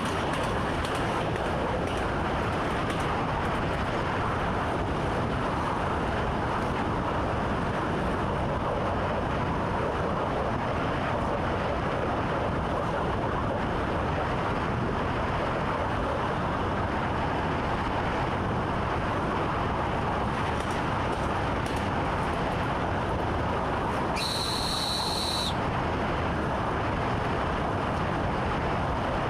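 Train running steadily along the line, heard from inside the driver's cab as a constant rumble and hiss. Near the end a short, high beep sounds for just over a second.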